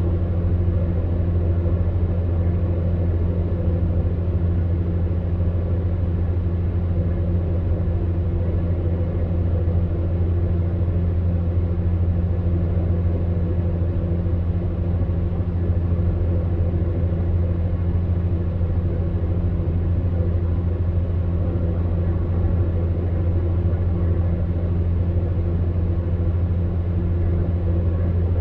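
Electric fan heater running steadily: a low, even hum under a soft blowing rush.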